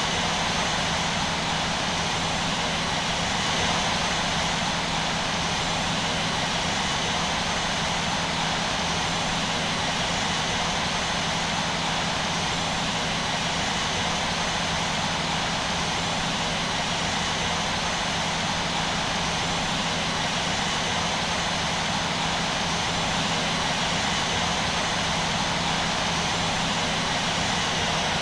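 Airbus A320's jet engines running steadily: a continuous even rush of noise with a low steady hum and a thin high whine over it, unchanging throughout.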